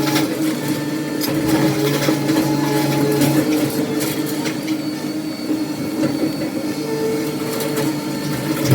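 Diesel engine of heavy demolition machinery running steadily, with scattered knocks and clatter over it.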